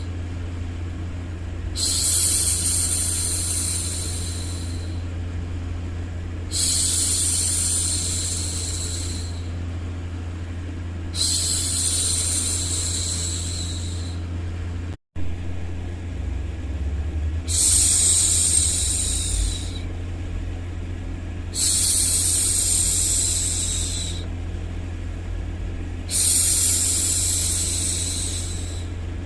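A woman's drawn-out 'shhh' hushing sound for soothing a baby, repeated six times about every four and a half seconds, each lasting around three seconds, over a steady low hum of background noise. The sound drops out for an instant about halfway through.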